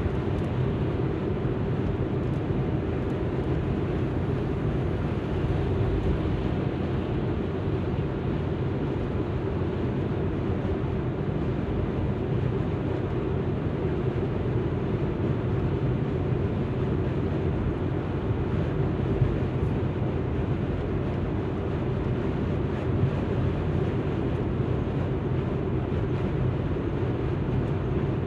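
Alfa Romeo MiTo driving along, its engine and tyre noise a steady, low rumble with no change in pace.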